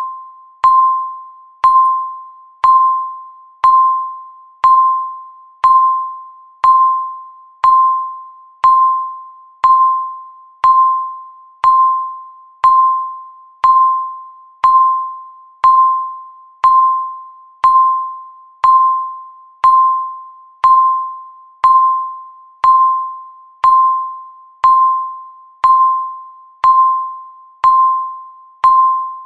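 Countdown timer's tick sound: a short bell-like ping once every second, each one ringing out and fading quickly, steady and evenly spaced.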